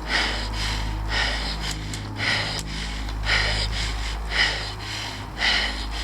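A cyclist breathing hard and rhythmically, about one loud breath a second, from the effort of grinding up a steep climb, over a steady low hum.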